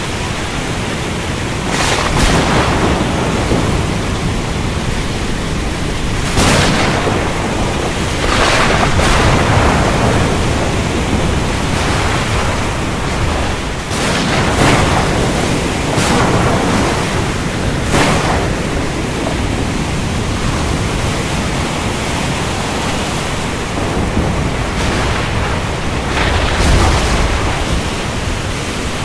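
Thunderstorm at sea: a steady rush of heavy rain and waves. Sharp cracks of thunder break through it every few seconds, and low rolling rumbles come about a third of the way in and again near the end.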